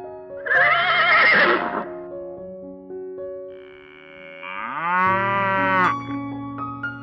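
Farm animal calls over background piano music: a loud, wavering call about half a second in, then a longer call rising in pitch from about four seconds in.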